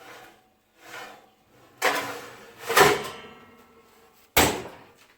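Oven door and metal baking tray being handled: a string of scrapes and clunks as the tray slides onto the oven rack, loudest about two to three seconds in, then a sharp knock near the end.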